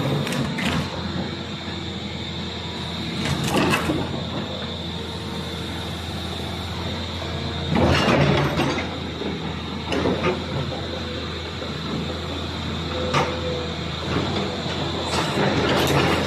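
Volvo EC360BL excavator running, with a steady engine hum and a constant high whine, broken every few seconds by short bursts of metallic clanking and scraping, the loudest about eight seconds in.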